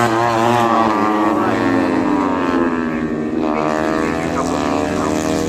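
Racing motorcycles running at high revs past the track, several engine notes overlapping and sweeping up and down in pitch as the bikes go by.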